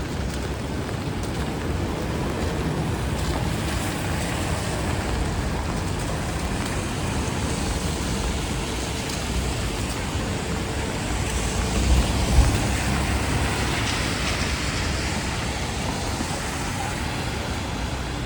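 City street traffic in the rain: a steady wash of passing vehicles with tyres hissing on wet pavement, and a brief louder low rumble about twelve seconds in.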